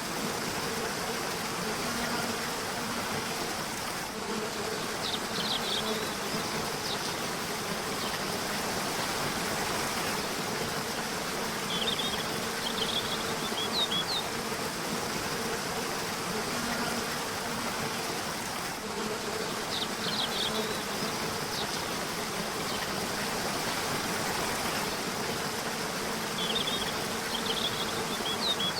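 Steady rushing of a river, with a bird's short phrase of quick high chirps repeating about every seven seconds. A steady low buzz runs underneath.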